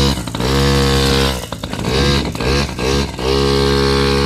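Motocross dirt bike engine being revved over and over: quick blips that rise and fall, and two longer held revs, the last one easing off near the end.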